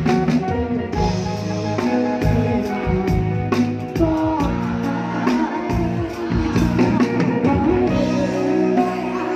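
A live band playing with drum kit and bass, and a voice singing over it.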